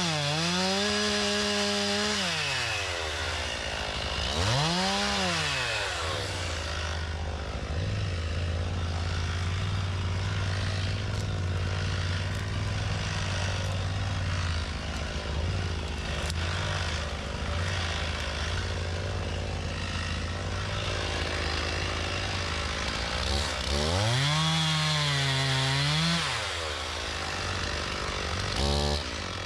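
Stihl MS391 two-stroke chainsaw bucking firewood. It revs up to full throttle and drops back several times: near the start, around four seconds in, again late on, with a short blip near the end. In between it runs steadily at a lower pitch.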